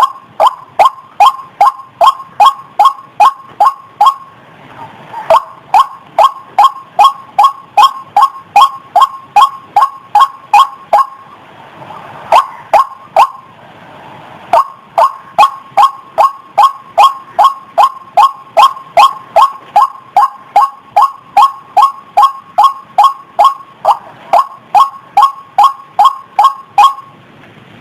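White-breasted waterhen (ruak-ruak) calling, a lure recording meant to draw the birds in: a fast, even run of sharp, loud 'kwak' notes, about three a second, in long bouts broken by a few brief pauses.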